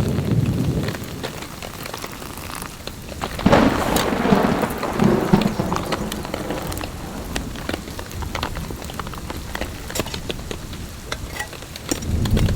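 Heavy rain falling on a tarp shelter, with many individual drops tapping close by, while thunder rumbles; the thunder is loudest from about three and a half seconds in and rolls again near the end.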